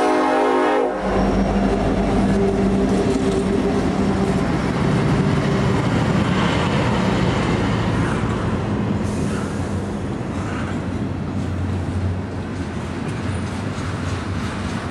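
A freight train's diesel locomotive horn chord cuts off about a second in. The passing locomotives' engines then run loudly by at speed, giving way after a few seconds to the steady rumble and clatter of double-stack container cars rolling past on the rails.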